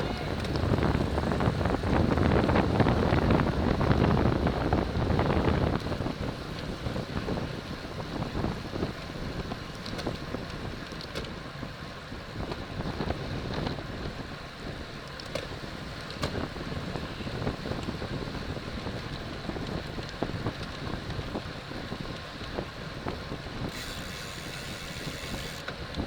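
Wind rushing over the microphone of a camera on a racing bicycle at speed, loudest for about the first six seconds, then a steadier, quieter rush.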